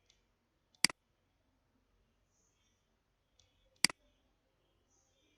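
Computer mouse button clicking twice, about three seconds apart, each click a sharp press-and-release snap.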